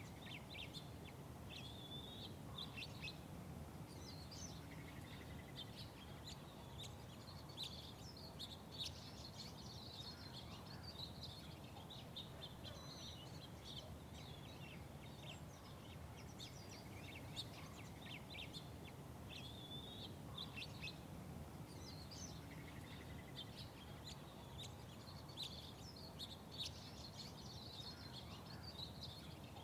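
Small birds chirping and twittering in quick, scattered calls throughout, over a steady low rumble of background city noise.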